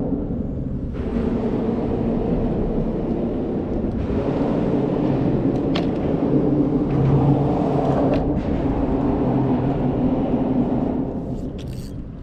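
Engine running steadily with a constant low hum, fading away near the end.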